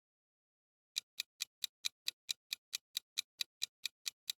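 Clock-like ticking of a quiz countdown-timer sound effect, starting about a second in, with sharp even ticks at about four to five a second.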